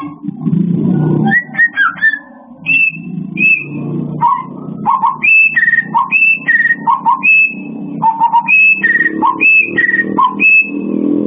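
A murai songbird singing a run of clear whistled notes, repeating a short phrase of a low note followed by two higher ones, over a low background rumble.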